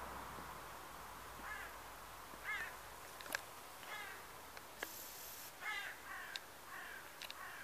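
A bird gives about eight short calls at uneven intervals, several in quick succession near the end, with a few sharp clicks in between. A faint low hum underneath fades out over the first few seconds.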